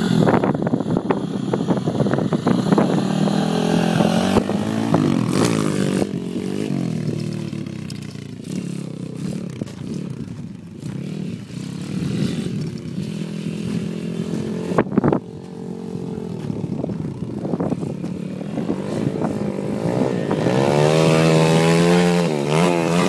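Pit bike engine revving as the bike pulls away, fading through the middle, then louder again near the end with the revs rising and falling. A single sharp knock about fifteen seconds in.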